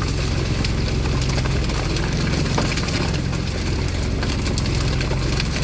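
A fishing boat's engine running steadily, a low even hum under a constant hiss.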